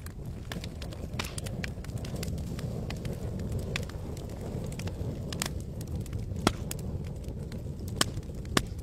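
Wood campfire crackling, with scattered sharp pops over a steady low rushing sound; the loudest pops come about two-thirds of the way through and twice near the end.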